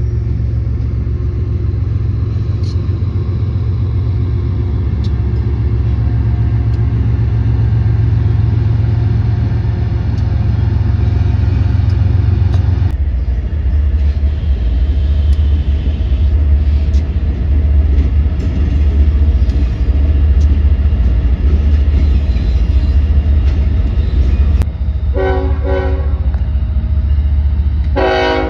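BNSF diesel freight locomotives and train running by with a heavy, steady low rumble that shifts about halfway through. Near the end the locomotive's air horn sounds two short blasts.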